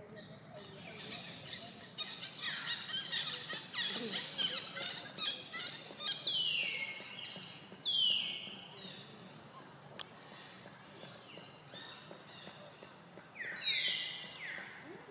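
Birds calling: a run of rapid, high chirping, then several whistled calls that slide down in pitch, given in short series. The loudest come about eight seconds in and again near the end.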